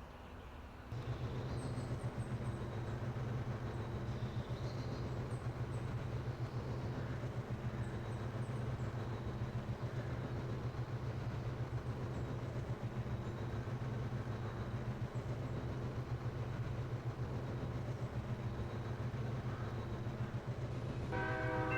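Diesel freight locomotive running with a steady low rumble that comes up sharply about a second in. Its horn starts sounding near the end.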